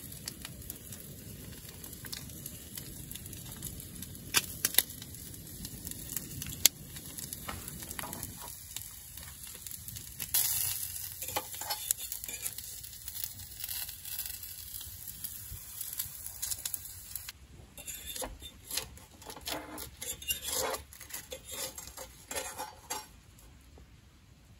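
Fried egg and bacon sizzling on a griddle plate over a portable gas stove. The steady sizzle drops away about a third of the way in, and short scrapes and clicks of a utensil on the griddle follow as the food is lifted off.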